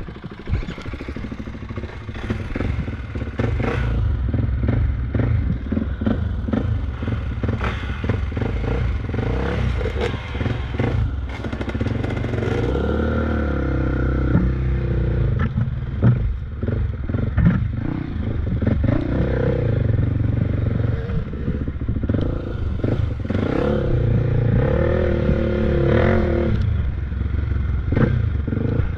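Off-road motorcycle engine running as it rides a trail, its pitch rising and falling with the throttle, with frequent rattling and knocking from the ride over rough ground.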